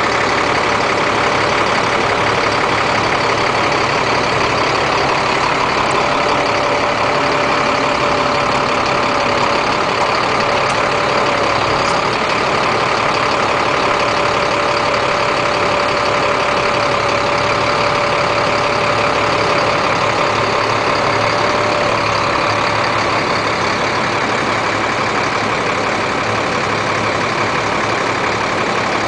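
Cat 3126 diesel engine of a service truck running steadily at raised idle while the truck-mounted crane is operated. A steady whine comes in about six seconds in and stops about twenty-two seconds in.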